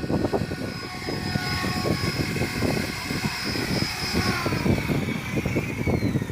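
Radio-controlled model airplane engine buzzing in flight, its pitch falling from about four seconds in as it passes by, over gusty wind rumble on the microphone.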